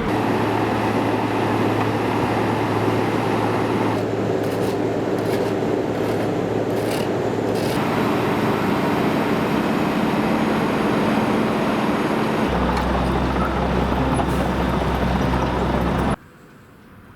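Road-repair machinery engines running steadily at a work site, with a lower engine hum setting in about three-quarters of the way through. The sound cuts off abruptly near the end.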